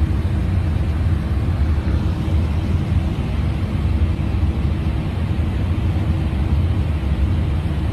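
Steady cockpit noise of an airliner in flight at cruise: a constant low rumble and rush of airflow with a faint hum, unchanging throughout.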